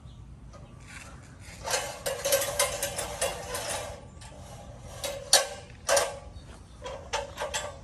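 Construction work with hand or power tools: a rattling run of clicks, then two sharp knocks and a quick series of clicks near the end.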